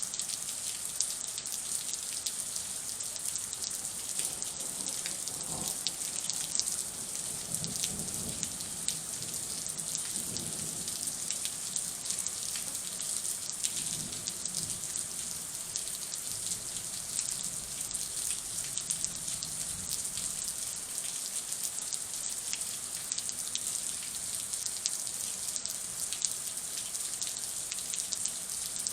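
Steady heavy thunderstorm rain falling: an even hiss dense with fine drop ticks, with a few faint low swells in the middle.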